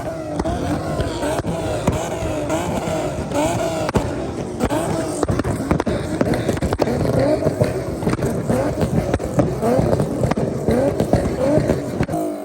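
Car engine revved over and over, its pitch climbing and dropping about once or twice a second, with a steady crackle of exhaust pops.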